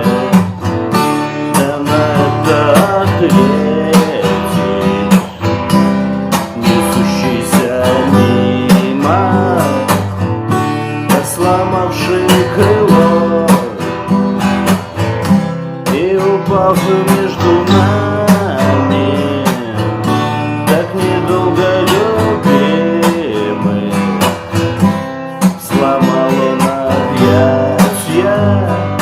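Acoustic guitar strumming with a wavering melody line above it, an instrumental passage of a song with no sung words.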